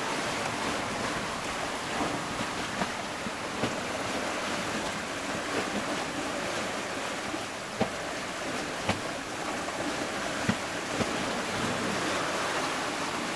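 Wind and sea water rushing past a sailboat under way, with a few short, sharp knocks now and then.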